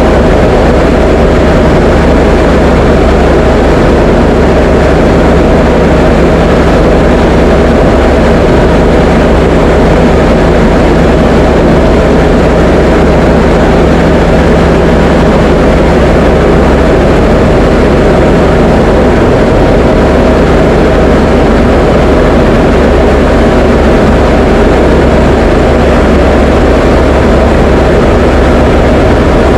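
Diamond DA20 light aircraft's piston engine and propeller heard from inside the cockpit, a loud steady drone with no change in pitch or level, as in cruise flight.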